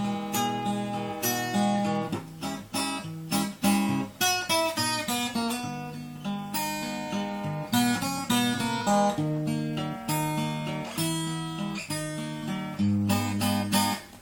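Acoustic guitar playing a song's instrumental introduction, picked and strummed chords with a held bass note near the end.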